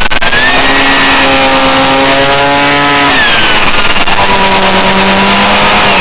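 An RC plane's electric motor and propeller heard from a camera riding on the plane, a whine whose pitch shifts with the throttle, dropping about three seconds in and then holding a lower steady note, over heavy wind rush.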